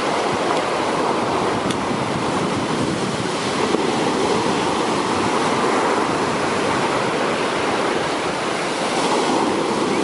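Large sea waves breaking and surf washing up a beach: a continuous, dense rush with no pauses.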